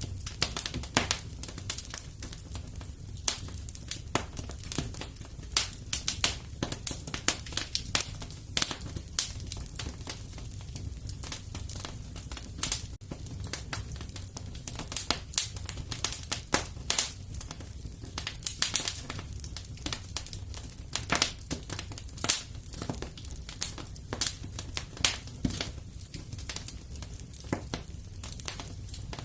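Fire in a fireplace crackling, with many irregular sharp snaps and occasional louder pops over a steady low rumble.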